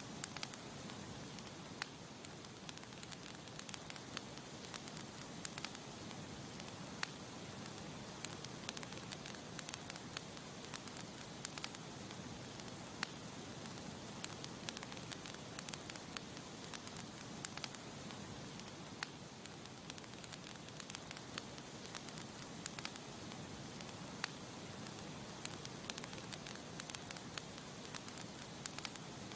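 Campfire burning with steady crackling: many sharp pops and snaps over a soft hiss of flames.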